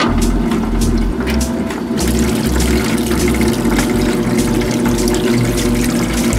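1950s Maytag wringer washing machine running: its electric motor hums steadily under the sound of water splashing and pouring.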